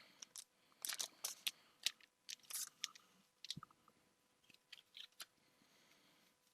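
Pokémon trading cards being handled and flicked through, a run of short, crisp card snaps and rustles that thins out after about three seconds, with one soft knock partway through.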